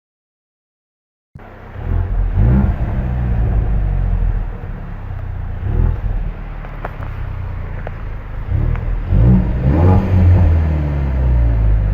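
2017 Ford Mustang EcoBoost's 2.3-litre turbocharged four-cylinder heard through a Flowmaster Outlaw axle-back exhaust: a deep exhaust note that rises in pitch several times as the engine revs up. The sound cuts in abruptly after about a second of silence.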